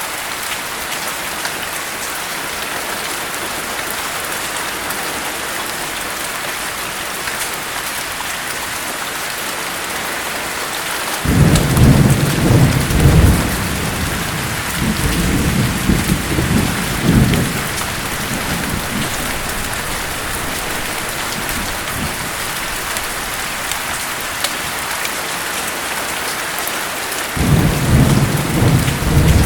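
Steady rain with two rolls of thunder: the first starts about a third of the way in and swells several times over some six seconds, the second comes near the end. The thunder is the loudest sound.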